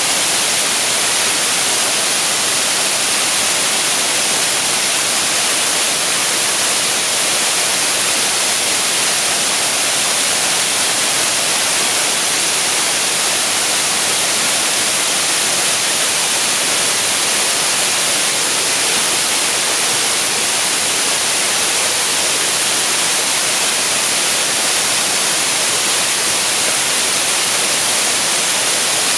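Waterfall pouring steadily, a constant loud rush of falling water that is bright and hissy with little deep rumble.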